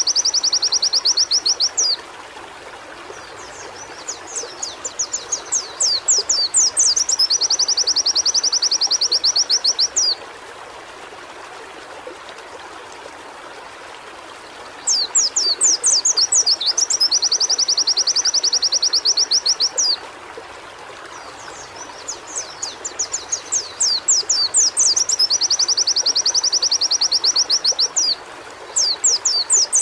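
Pleci (white-eye) singing: phrases of quick high chirps that run into a fast, even trill, four phrases of a few seconds each with short pauses between, over a steady background hiss.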